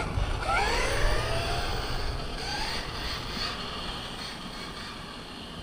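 The brushless electric motor of a 1/8-scale Arrma Typhon RC buggy whines as the buggy launches at full throttle. The whine rises in pitch over the first second or two, then fades steadily as the buggy speeds away.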